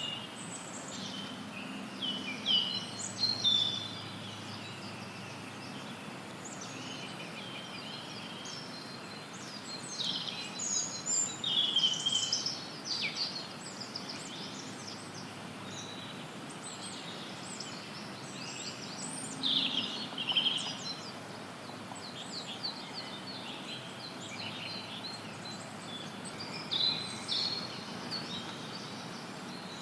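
Forest birds singing and calling over a steady bed of white noise. The birdsong comes in short clusters of high chirps and trills every several seconds, while the hiss stays even underneath.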